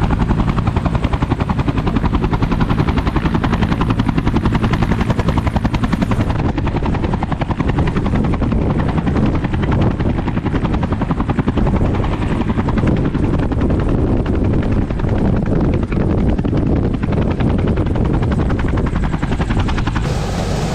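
Helicopter running loud and steady, its rotor blades beating in a fast, even rhythm over the engine's hum.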